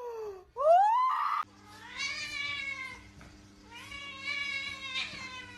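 A cat giving two long, drawn-out meows, each rising and then falling in pitch, over a steady low hum. Before them, a rising cry cuts off abruptly about a second and a half in.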